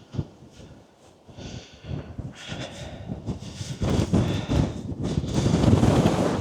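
Strong wind buffeting the microphone in uneven gusts, a low rumble that builds through the second half.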